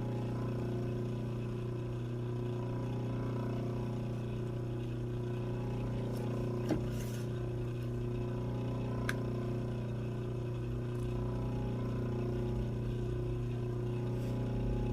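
A steady low hum, like a motor or appliance running, with a couple of faint short clicks.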